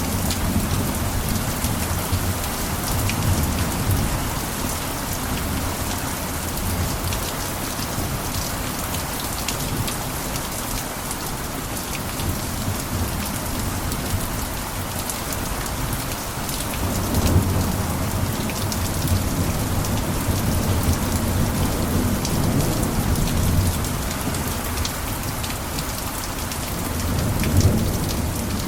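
Steady rain on a cabin roof, a dense hiss dotted with the ticks of single drops. A low rumble of rolling thunder swells and fades near the start, again through the middle, and once more near the end.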